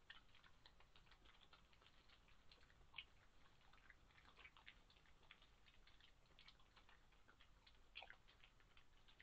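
Badgers crunching and chewing peanuts: a dense run of faint, irregular crisp clicks and crackles, with a couple of louder snaps about three seconds in and near the end.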